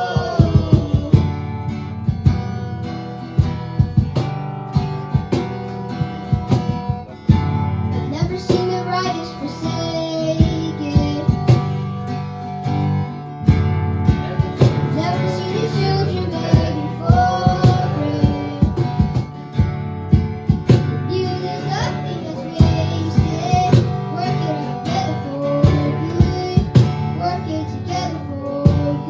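Live worship band playing: strummed acoustic guitar over a sustained bass layer, with regular drum hits and a melody line above.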